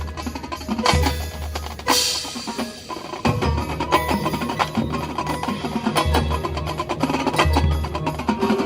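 Percussion music: a run of quick, sharp drum and wood-block hits over repeated low bass pulses, with ringing pitched mallet and bell tones.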